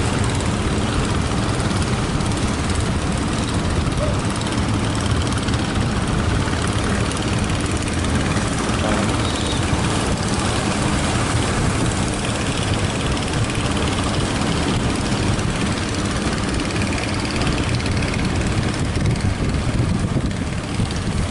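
Fishing boat's engine running steadily under loud wind noise on the microphone in strong wind at sea.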